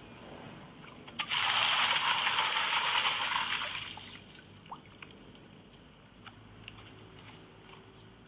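Water poured out of a container into a pool in one gush of about two and a half seconds, starting just over a second in, then a few faint ticks and drips.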